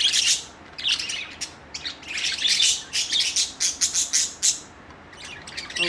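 Budgerigars chattering: quick runs of high chirps and warbles in bunches, thinning out briefly near the end.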